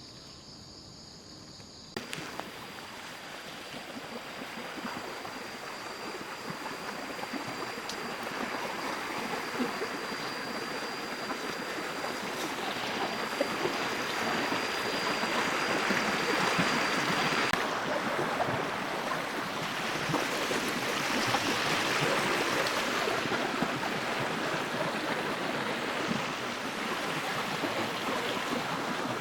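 Stream water rushing and splashing as a steady, even noise that swells gradually louder after a quieter first two seconds. A thin, steady high tone runs beneath it and stops about two-thirds of the way through.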